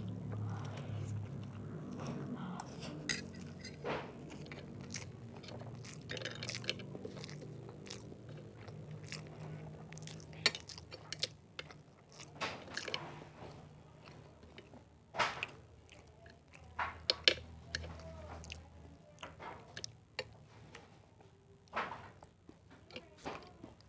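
Close-up chewing and mouth sounds of someone eating rice and rolled-egg skewers, with many short, sharp clicks and taps scattered throughout. Soft background music with low held notes runs under most of it and fades out about three-quarters of the way through.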